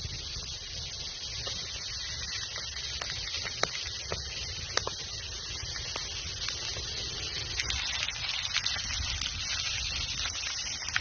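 Campfire crackling: a steady hiss with scattered sharp pops and snaps throughout.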